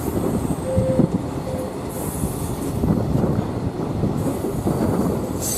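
Passenger coaches running on rails, heard from inside the train at an open window: a steady rumble and rattle of wheels on track, with a couple of brief squeals about a second in and a high squeal at the very end.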